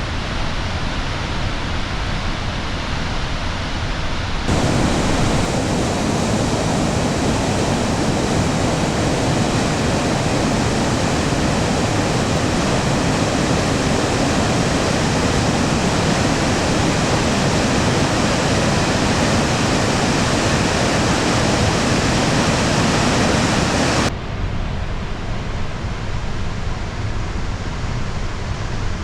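High Force waterfall on the River Tees, swollen by rain and snowmelt, a steady loud rush of falling water. About four seconds in it jumps abruptly louder and fuller, and it drops back just as suddenly about five seconds before the end.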